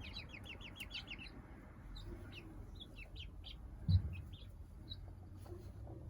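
Young chickens peeping: a quick run of about a dozen high cheeps in the first second or so, then scattered cheeps. A single low thump about four seconds in.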